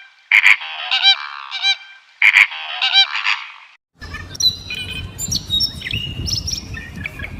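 A large bird calling loudly in a run of short, arching, pitched notes, a goose-like honking. About four seconds in the sound cuts to small birds chirping and whistling over a low outdoor rumble.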